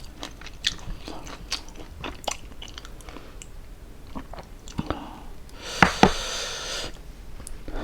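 Close-up chewing and biting of crispy fried pork, with wet clicks and crunches scattered through, and a louder crunchy bite about six seconds in.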